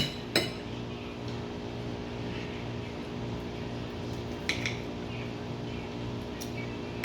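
Steady low background hum with a few light clinks of cutlery against a plate, one about half a second in and a couple more between four and six and a half seconds in.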